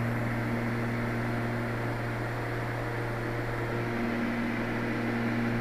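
Small airplane's engine and propeller droning steadily in the cockpit, picked up by a microphone inside the pilot's headset: an even hum with a strong low tone and no change in pitch.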